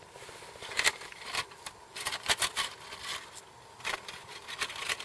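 Irregular scrapes and clicks of camp gear being handled, a dozen or so sharp sounds spread unevenly, loudest a little under a second in and again around two and a half seconds.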